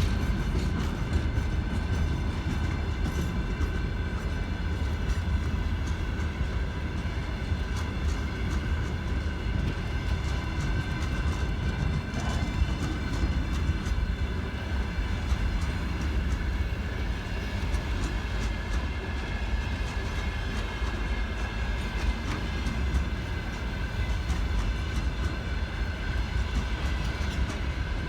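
Freight train rolling past at steady speed: a continuous low rumble of wheels on rail, with frequent clicks over the rail joints and a faint steady whine above it.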